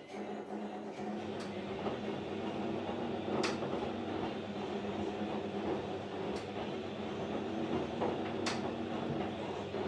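AEG Lavamat 804 front-loading washing machine running its wash cycle: a steady motor hum with the drum turning and water and laundry churning, broken by a few short sharp clicks or knocks.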